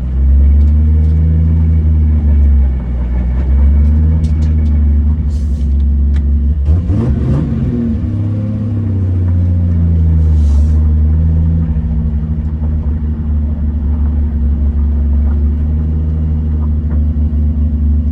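Big-turbo Toyota Supra engine running at low revs, heard from inside the cabin as a steady low drone, with a brief rise in revs about seven seconds in.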